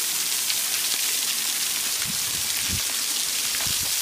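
Waterfall water falling and splashing, a steady hiss like heavy rain. A few dull low knocks come in the second half.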